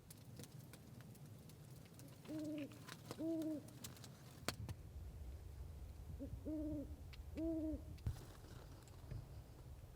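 Owl hooting: two pairs of short, even hoots, the second pair about four seconds after the first, with a few faint sharp snaps in between.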